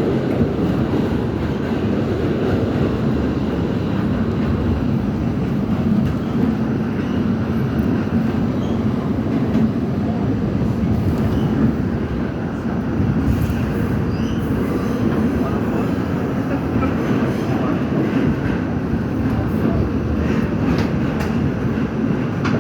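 R68 subway train running along the track: a steady rumble of wheels and running gear, with a few faint clicks over rail joints in the second half.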